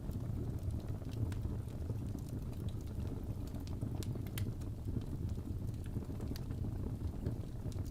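Crackling fireplace: a steady low rumble of burning with scattered, irregular sharp pops and snaps.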